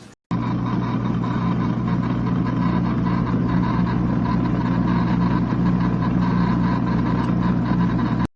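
Small electric motor of a mini portable washing machine running with a steady hum. It starts and stops abruptly at edit cuts.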